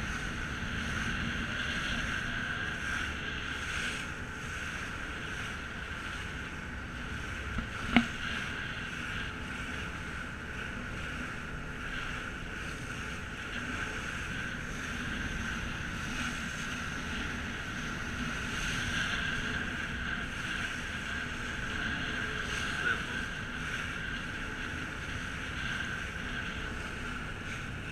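Ferry boat under way: a steady engine drone mixed with wind and water rushing past the hull. A single sharp knock sounds about eight seconds in.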